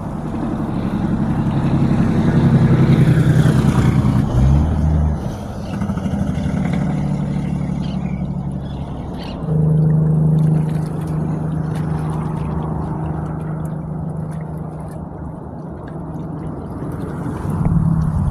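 Motor vehicles passing with engines running. One grows louder and passes about two to three seconds in, and a steady engine drone sets in about ten seconds in.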